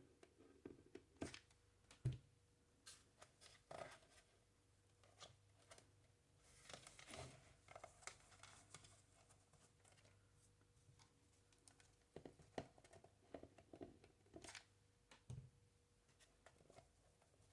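Near silence with faint handling noises: scattered light taps and clicks and a soft rustle as jute rope is wrapped around a plastic flower pot and hot-glued in place. A single low knock about two seconds in is the loudest sound.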